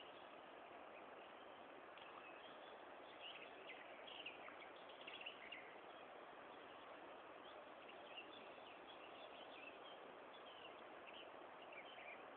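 Near silence: a steady hiss with faint bird chirps now and then.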